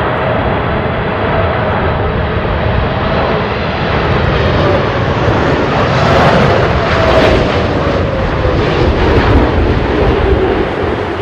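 Boeing 747 jet engines passing close on approach, a loud steady jet rumble with a tone that falls in pitch as the airliner goes by, loudest in the second half.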